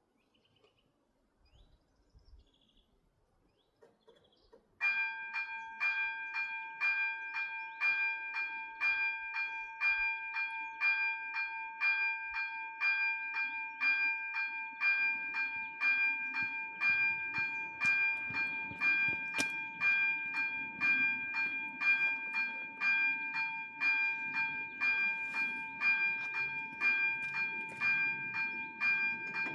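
ZV-03 level crossing warning bells start suddenly about five seconds in, ringing steadily at about two strikes a second. A low rumble builds in the second half as a train approaches.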